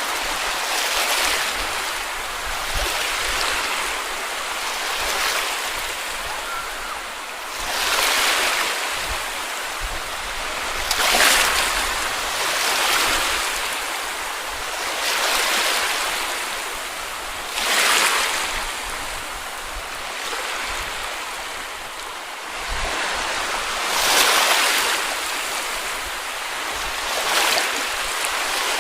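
Small sea waves washing onto a beach, the surf surging and falling away about every two to three seconds.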